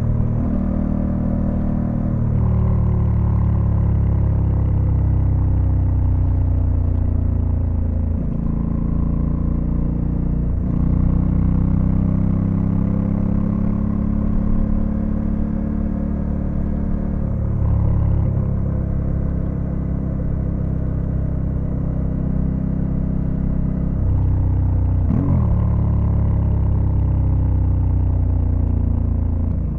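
Honda Africa Twin CRF1100L's parallel-twin engine under way, its revs falling and rising through several gear changes. About 25 seconds in there is a quick sharp rev blip, followed by the engine pulling again.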